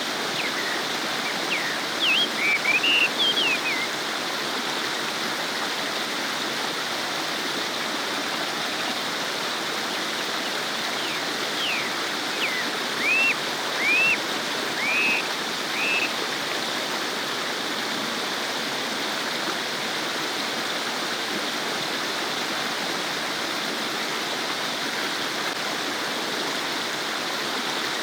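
A small stream babbling, a steady rushing and gurgling of water. Short high chirps come in two clusters, in the first few seconds and again about halfway through.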